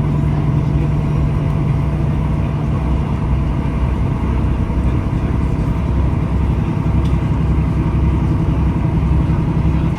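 Diesel passenger train under way: a steady engine drone over low rumble and running noise.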